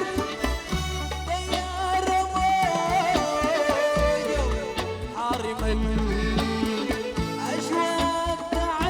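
Live band music of a Sudanese song: a wavering melody line over bass and percussion.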